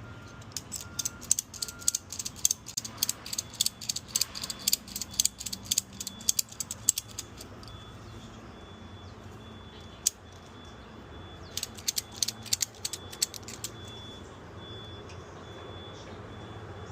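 Rapid, irregular metallic clicking and rattling from hand work on a rusty metal go-kart seat, in a long spell and then a shorter one about eleven seconds in, over a steady low hum and a faint intermittent high beeping.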